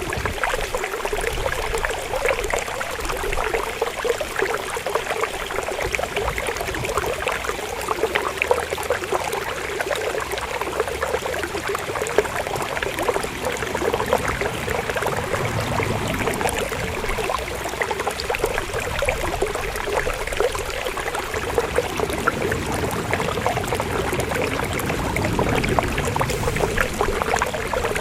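River water flowing steadily, a continuous babble of many small splashes.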